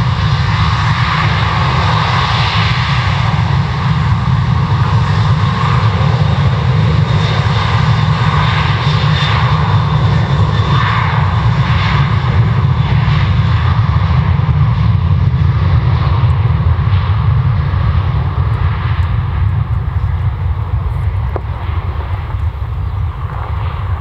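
Boeing 737-800's CFM56 jet engines at takeoff power as the airliner rolls and climbs out, a loud steady noise that thins and fades over the last several seconds.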